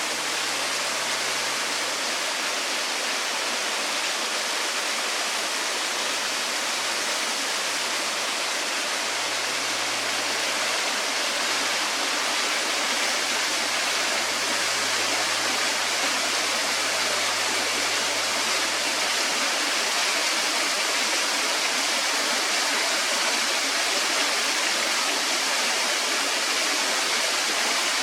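Small waterfall with a fast flow, water rushing and splashing in a steady, even roar.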